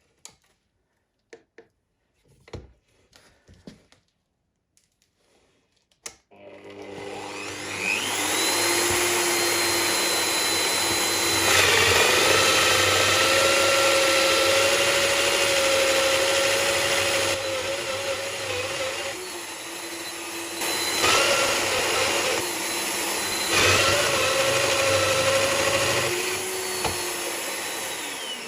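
A few light knocks, then an electric power tool motor starts about six seconds in, whines up to speed and runs loudly for about twenty seconds, its pitch dipping and recovering several times as it bites into wood, before winding down near the end.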